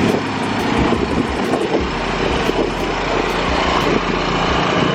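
Car engines idling steadily, a continuous low engine hum with no revving.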